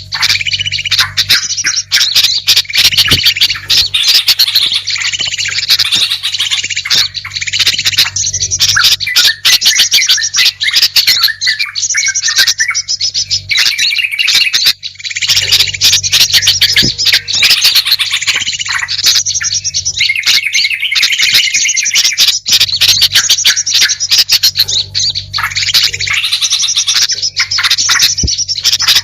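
Dense, unbroken chorus of small songbird chirps, trills and squawks, rapid and overlapping: a mixed bird-lure (pikat) call track used to draw wild birds in.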